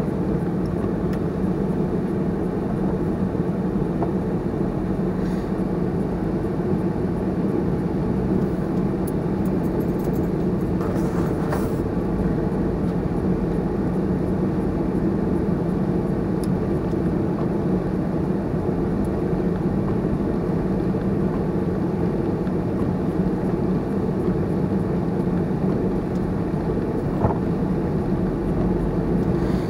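Steady cabin noise from a Honda CR-V being driven on snowy roads: a low, even drone of engine and tyres, heard from inside the car.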